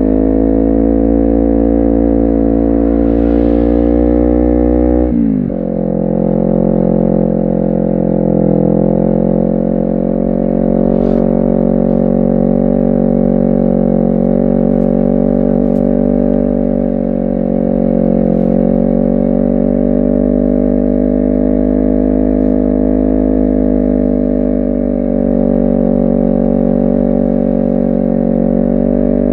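Honda CBR250RR's parallel-twin engine running under way; its note climbs slowly, drops abruptly about five seconds in, then holds fairly steady with small rises and falls.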